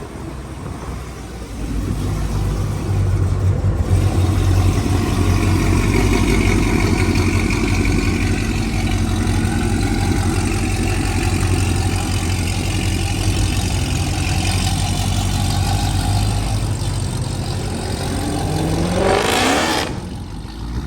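Car engines running at a car meet, a steady low engine note under a wash of exhaust noise. Near the end one engine revs up in a rising sweep, then the sound drops off abruptly.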